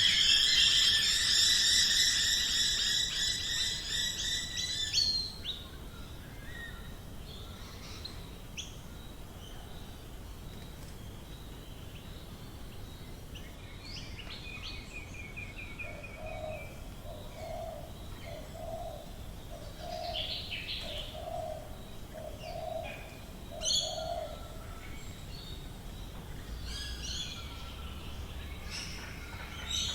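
Australian bush birds calling: a loud, dense chorus of calls for the first five seconds that stops abruptly, then scattered quieter chirps and whistles. Around the middle there is a run of about eight evenly spaced low hooting notes.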